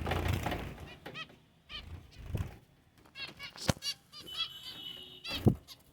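Pet finches chirping: a string of short, high calls, with a rustle at the start, a sharp knock in the middle and a louder thump near the end.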